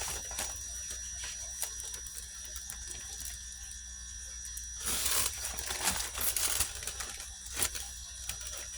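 Heavy-duty plastic shipping bags being handled and opened, crinkling and rustling with small clicks, louder and busier from about five seconds in.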